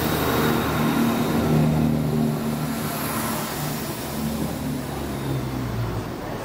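Southern multiple-unit passenger train moving past close by along the platform: a steady low hum from its running gear and motors over wheel and rail noise.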